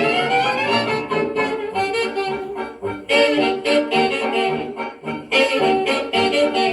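Jazz band recording played back from a cut disc: saxophones and brass playing together over a steady dance beat, with a rising smear of notes about a second in.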